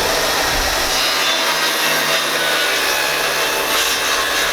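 A small electric power tool running continuously at a steady speed, a loud even whirring noise with a constant motor hum underneath.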